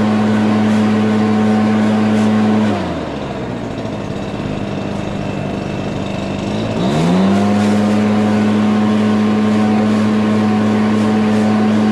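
Small petrol lawnmower engine running at a steady speed. About three seconds in, it drops sharply in speed and runs lower and quieter for about four seconds, then picks back up to full speed.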